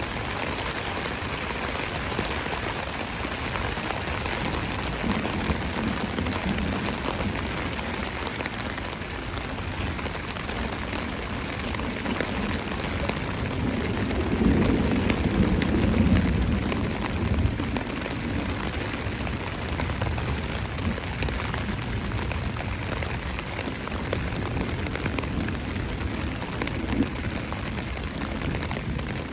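Heavy rain drumming steadily on a tarp. A low rumble swells and fades about halfway through.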